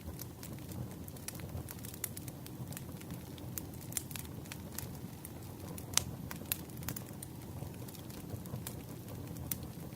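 Campfire burning with a steady low rumble and frequent irregular crackles and pops of the burning wood, one sharp pop about six seconds in.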